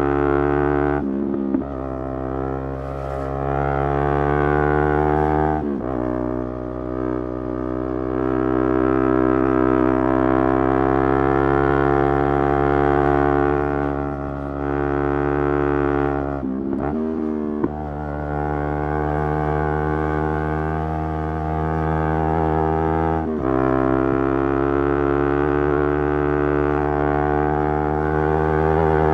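Motorcycle engine running steadily under way, with brief breaks in the sound for gear changes, after which the engine note settles at a new pitch.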